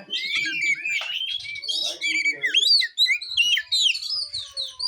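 Oriental magpie-robin (kacer) singing a dense, continuous song of varied chirps and whistled notes that sweep sharply up and down.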